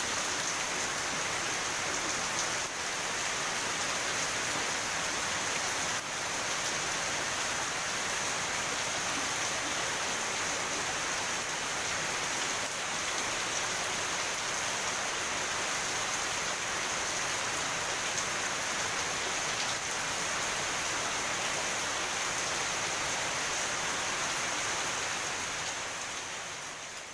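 Heavy rain pouring steadily, an even, dense hiss, fading out near the end.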